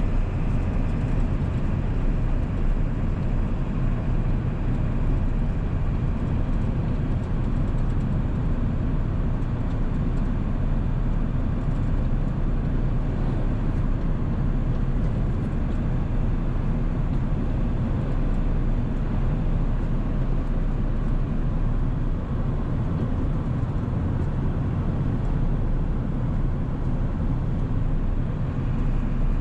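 Ford 7.3 Powerstroke turbodiesel V8 running steadily under way, with tyre and road noise, at an even, constant level.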